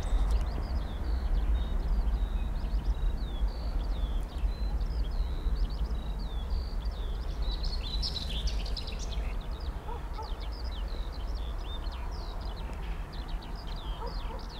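Songbirds chirping and singing with many short, quick notes, over a steady low rumble.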